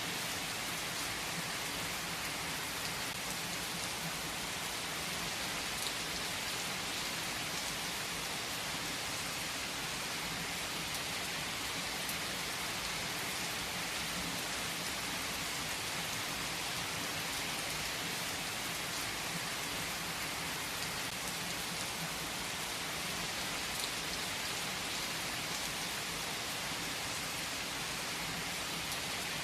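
Steady rain falling as an even, unbroken hiss with no let-up.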